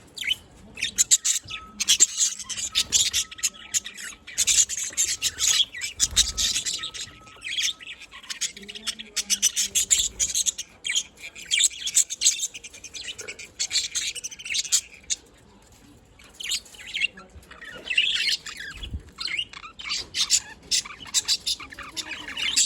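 Budgerigars chirping and chattering in quick, dense runs of high chirps, with a short lull about two-thirds of the way through.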